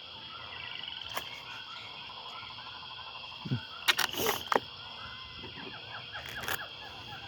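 A chorus of frogs calling, with repeated trills and pulsed calls overlapping steadily. About four seconds in, a few sharp knocks stand out above it.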